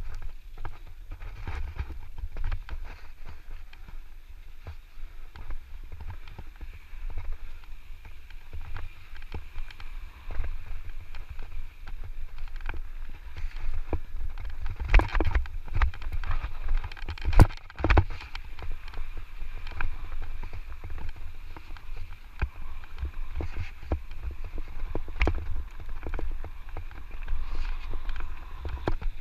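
Electric mountain bike riding a rough dirt trail: the chain and frame rattle and clatter over bumps, with wind rumbling on the microphone. There are a few sharper knocks about halfway through.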